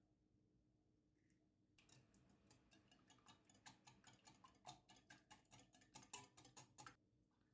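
A quick, irregular run of light clicks and taps, many per second, starting about two seconds in and stopping abruptly about five seconds later.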